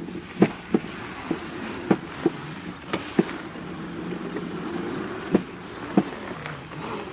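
Electric mini dirt bike running, its motor giving a steady low hum. About ten sharp clicks or knocks come at uneven intervals over the hum.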